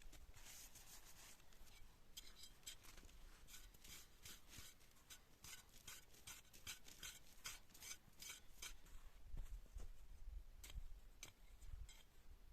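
Faint run of short scraping strokes, about three or four a second, stopping about nine seconds in, with a few single strokes after.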